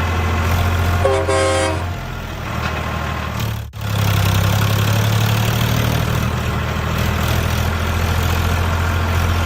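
Truck engine running steadily with a deep hum, a short horn toot about a second in, and a brief break partway through.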